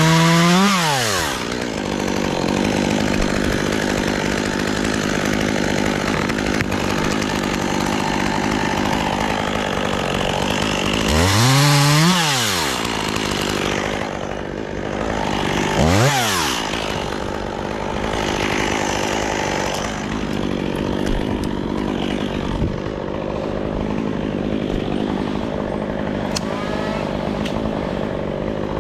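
Chainsaw engine running steadily, briefly revved up and back down three times: at the start, about twelve seconds in, and about sixteen seconds in.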